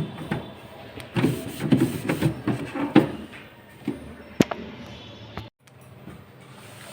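Hand-cleaning of a refrigerator's plastic interior: irregular rubbing and scrubbing with knocks of parts being handled, then a sharp click about four and a half seconds in.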